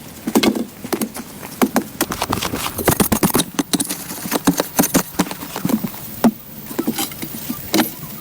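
A quick, irregular series of light knocks and clicks, several a second.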